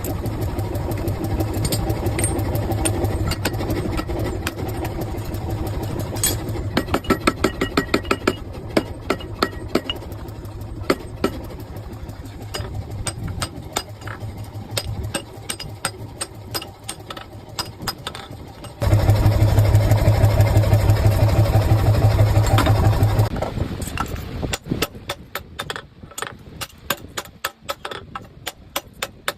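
Hammer blows on a hot steel-cored axe head over a steady machine hum, truing the axe eye to line up with the edge. The strikes come in fast runs, loudest and densest about two-thirds of the way in, then spaced out near the end.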